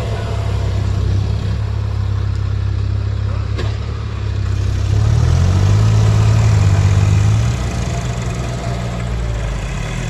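Tractor diesel engine running under load, revving up about halfway through, holding high revs for a couple of seconds, then dropping back to a lower speed.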